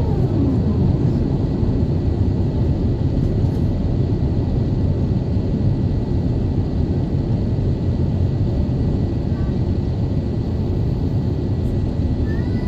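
Jet airliner engines, the Airbus A350-900's, give a steady low rumble. A whine falls sharply in pitch in the first second.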